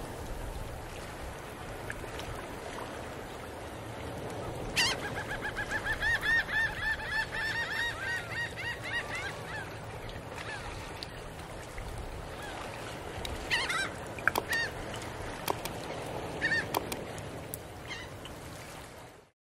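Birds calling over a steady background hiss: a fast run of repeated calls starts about five seconds in and lasts some four seconds, followed later by a few single calls.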